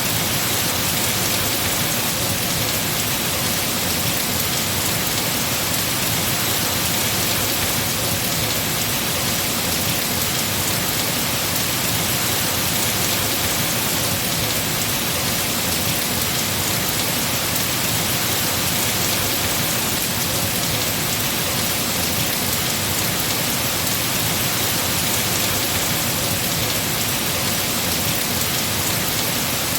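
Heavy rain falling steadily on trees and foliage, a dense even patter with no breaks.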